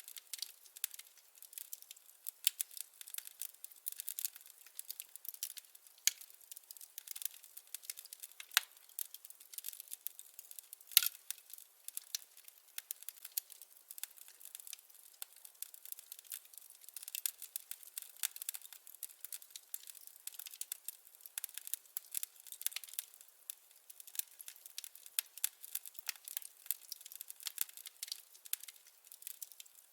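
Wood fire crackling: a dense, irregular run of small crackles and snaps, with a sharper pop about eleven seconds in.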